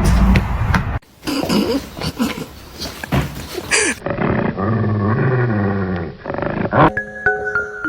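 An animal's drawn-out low growling call across several short clips spliced together. Music begins near the end.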